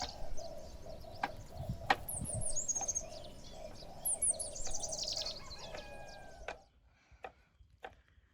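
A songbird sings three times, each song a quick run of high notes dropping in pitch, over a steady low hum and a few knocks. The sound cuts off abruptly about six and a half seconds in, leaving only faint clicks.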